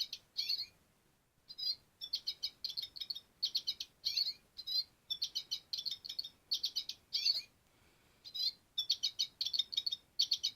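Realistic bird song: phrases of quick, high chirps, each a rapid run of five or six notes, repeated over and over with short pauses between.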